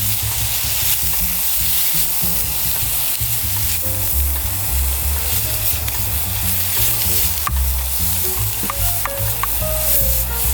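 Food sizzling as it fries in a pan, a steady crackling hiss, with background music and its low bass line playing over it.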